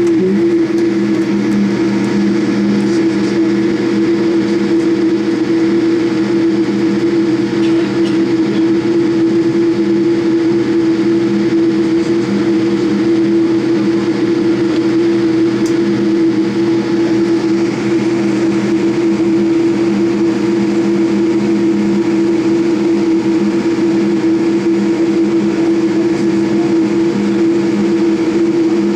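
Steady cabin drone of a Boeing 787 Dreamliner in flight, heard from inside the cabin: the jet engines' constant hum over a broad rush of airflow. It holds level with no change in pitch.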